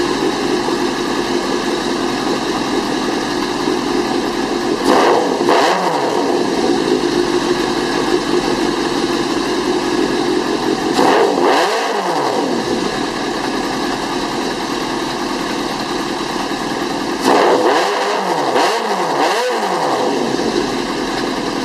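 Kawasaki ZRX1200R's inline-four engine idling through a DanMoto GP Extreme megaphone exhaust, with quick throttle blips: one about five seconds in, another near the middle, then three in quick succession near the end.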